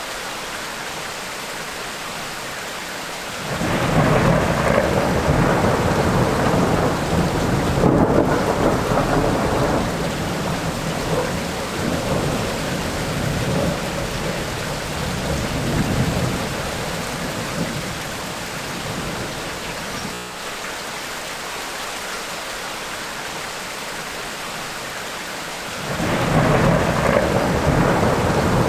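Steady tropical downpour with rolling thunder. A long rumble swells a few seconds in and dies away over about a dozen seconds, and a second rumble begins near the end.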